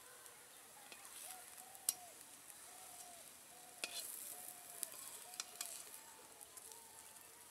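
Spinach and gram-flour omelet patties sizzling faintly in shallow oil in a metal kadai, with a metal spatula clicking and scraping against the pan several times.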